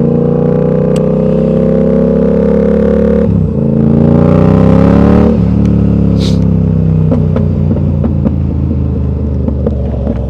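Yamaha R7's 689 cc parallel-twin engine under way: the pitch sinks slowly as it rolls along, then rises for about two seconds as it accelerates. Around five seconds in it drops sharply, like an upshift, and then holds steady and eases off toward the end.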